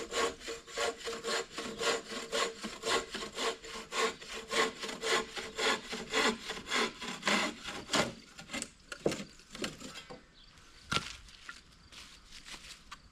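A hand saw cutting through wood with quick, even back-and-forth strokes, about two to three a second. The strokes slow and stop about eight seconds in, with a few scattered strokes and one sharp crack near the end.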